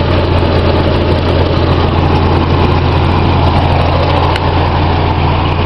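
1991 Mazda Miata's 16-valve 1.6-litre four-cylinder engine idling steadily.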